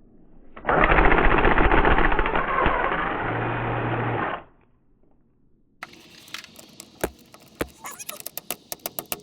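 A power tool runs with a loud, fast rattle for about four seconds, then stops. After a short pause comes a run of sharp metallic clicks that quickens near the end.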